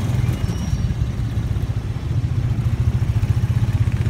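Motorcycle engine of a tricycle (motorcycle with sidecar) running steadily under way, a fast-pulsing low rumble heard close up from the sidecar.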